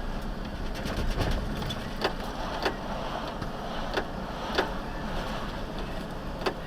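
Vehicle driving on city streets: steady road and engine noise, with several sharp clicks or knocks at irregular intervals.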